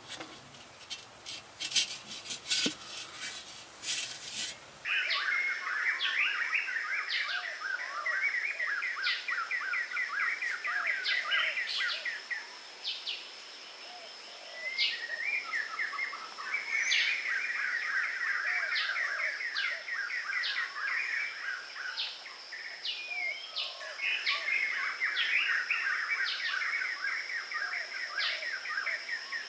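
Birds calling in long rapid trills, three bouts of several seconds each, over a steady high-pitched insect tone. The first few seconds hold a handful of sharp clicks and knocks.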